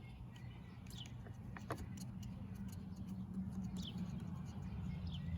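Faint, short, downward-sliding chirps, like small birds, over a steady low rumble, with scattered small clicks and taps of parts being handled.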